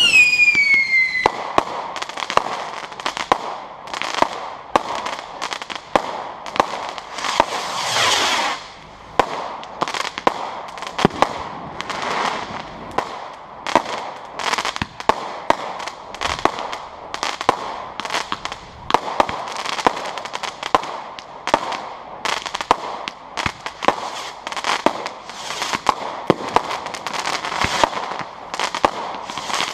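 Fireworks going off: a falling whistle at the start, then a dense run of sharp bangs and crackles, with a hissing whoosh about eight seconds in.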